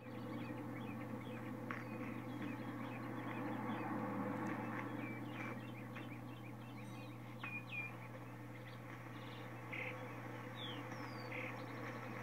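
Birds chirping in many short, scattered notes over a steady low hum, heard through a television's speaker.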